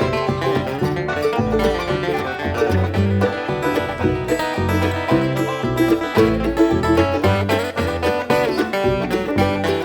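Bluegrass band playing an instrumental break with no singing: picked banjo over guitar, with a moving bass line underneath.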